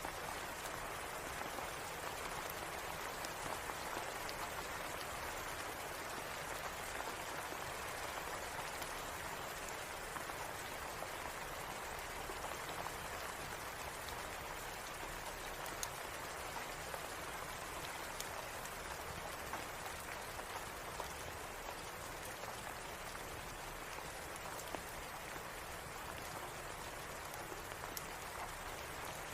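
Steady rain falling, an even dense patter with scattered sharp ticks through it.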